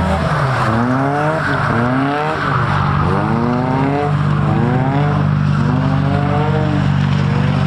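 A car's engine revving up and down again and again, about once a second, as it is held at high revs through donuts on wet pavement, with tyre noise underneath.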